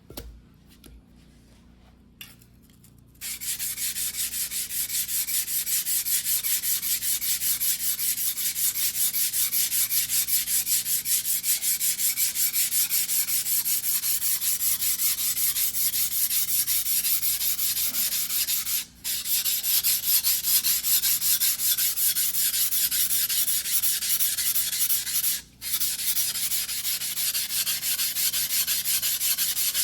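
Single-bevel white-steel sashimi knife (a 270 mm Mizuno Tanrenjo fuguhiki) being hand-ground on a wet whetstone: steady, rapid back-and-forth scraping strokes that start a few seconds in, with two brief pauses.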